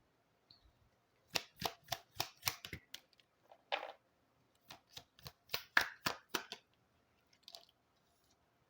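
Oracle cards being handled and laid down on a table: a string of sharp clicks and taps in two clusters, with a short rustle between them.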